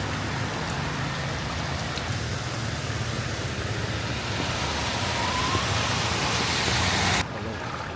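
Rain falling with a steady hiss over the low hum of vehicle engines. The hiss grows louder, then drops away suddenly about seven seconds in.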